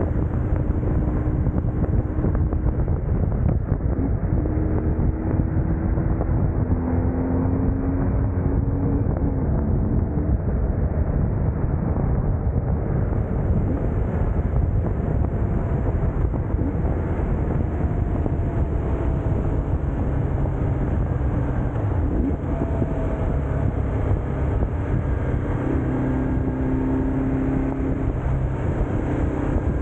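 Onboard sound of a BMW R1150GS Adventure riding: its boxer-twin engine running under steady wind and road noise, the engine note shifting up and down in pitch several times.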